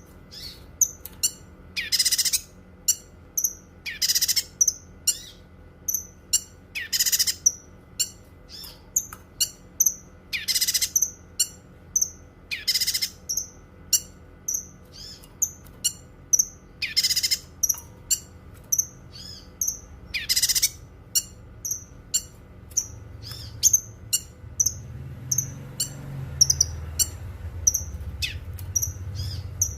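Cucak kinoi songbird singing: rapid, short, high chirps several times a second, broken every two or three seconds by louder, harsher notes. A low rumble comes up under the song in the last few seconds.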